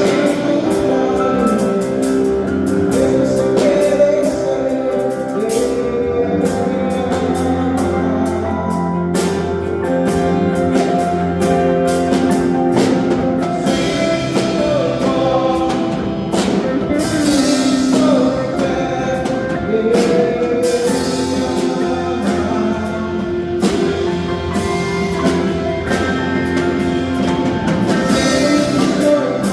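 A live gospel worship band playing, with a steady drum-kit beat under sustained chords and a voice singing at times.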